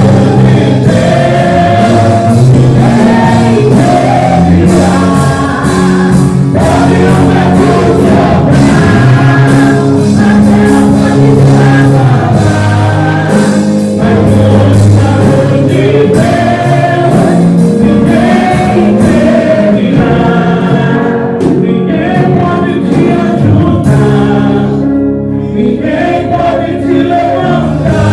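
Gospel worship song in Portuguese-church praise style: several voices singing together over sustained instrumental backing, loud and continuous.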